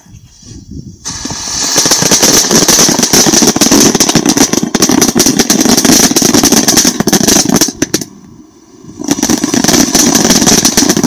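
Consumer firework fountain burning: a loud spraying hiss thick with rapid crackling. It drops away for about a second around eight seconds in, then resumes.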